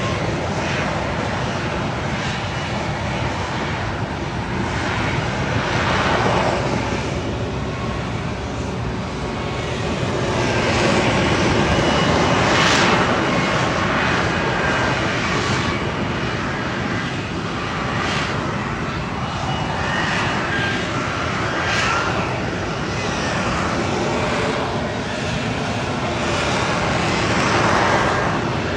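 Engine of a military jump jet hovering in mid-air: a steady, loud rush of jet noise that swells and eases gently every few seconds.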